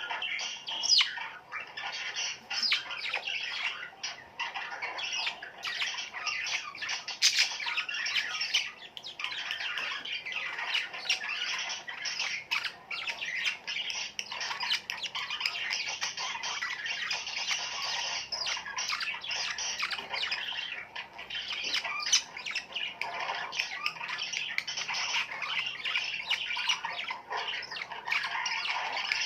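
A flock of birds chirping and squawking together in a dense, unbroken chatter of short, overlapping calls.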